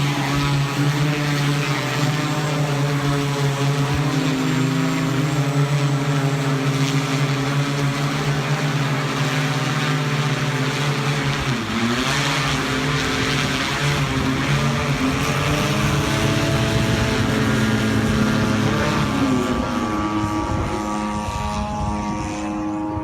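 Electric motors and propellers of an RC VTOL plane running with a steady buzzing hum. The pitch dips about halfway through and shifts up and down again later, and the sound thins out near the end.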